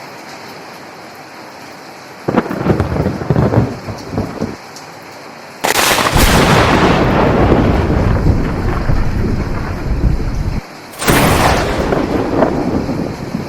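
Steady rain with thunder: a short rumble a couple of seconds in, a long loud peal starting with a sudden crack about halfway and rumbling for about five seconds, then another clap near the end.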